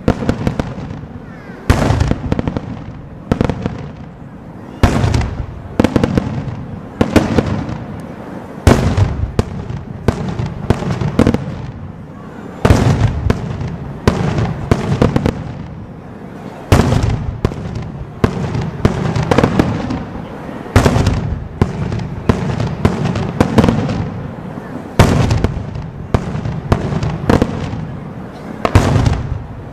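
Daytime aerial firework shells bursting in a steady barrage, about one heavy bang a second, each report trailing into a rolling rumble.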